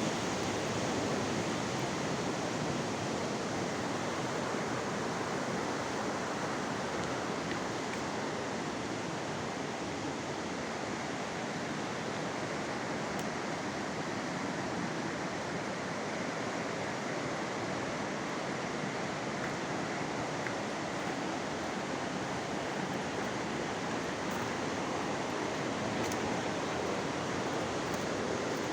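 Steady rushing of fast-flowing water in a canyon stream, an even, unbroken noise.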